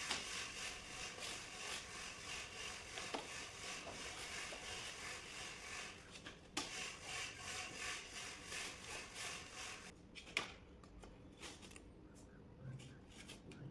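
Rough, rapidly repeated rubbing or scraping strokes on a hard surface, which stop about ten seconds in. After that come a few scattered light clicks.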